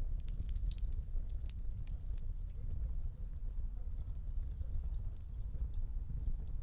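Wood fire crackling in a fireplace: frequent small sharp pops and snaps over a low steady rumble of burning flames.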